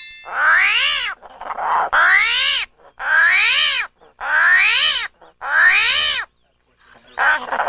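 A cat meowing over and over, about five or six calls that each rise and fall in pitch, under a second apart. Near the end comes a short rushing, hiss-like noise.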